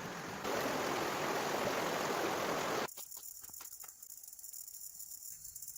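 A steady rushing noise, louder after about half a second, that cuts off abruptly just before three seconds in. A much quieter stretch follows, with faint ticks and a high, thin buzz.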